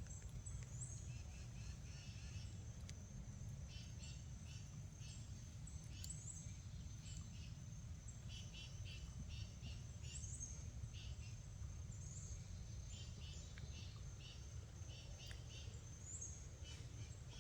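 Faint outdoor ambience: small birds chirping and twittering in short high bursts again and again, over a steady low rumble and a thin, steady high tone.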